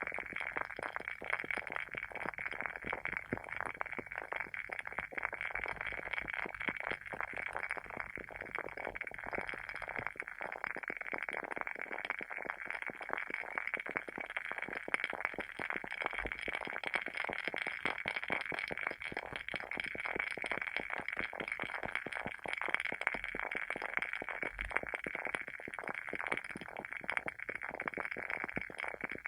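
WoodWick candle's wooden wick crackling steadily as it burns, a dense stream of small irregular pops.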